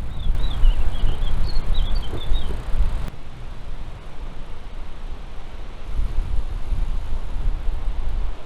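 Wind buffeting the microphone of a moving bicycle, over a steady rush of water from the Rhine Falls that grows louder on the approach. A small bird twitters several times in the first two and a half seconds. The wind rumble eases after about three seconds.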